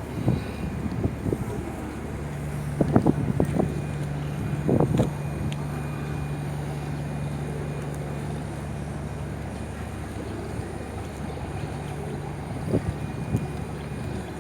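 Wind rumbling on the microphone, with a steady low motor hum that starts about two seconds in and a few short knocks early on.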